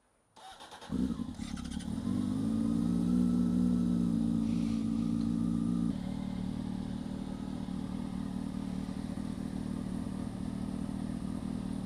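A 2000 Honda CB600F Hornet's inline-four engine starting up about a second in and idling cold while it warms up. It runs at a raised idle, then drops abruptly to a lower steady idle about six seconds in.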